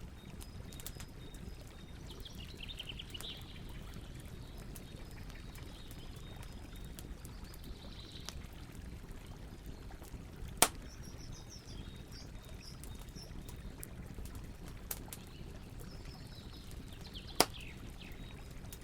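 Campfire burning, with a steady low rush and scattered small crackles; two sharp pops, about ten and seventeen seconds in, are the loudest sounds. Birds chirp faintly now and then.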